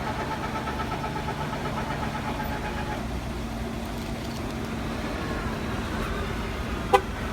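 Pickup truck engine idling steadily. Partway through, a higher tone drops out, and a single sharp click comes near the end.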